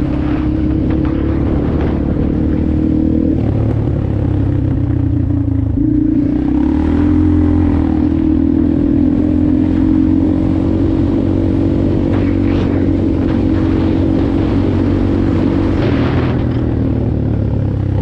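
Dirt bike engine running while riding, its pitch shifting up and down a few times with the throttle.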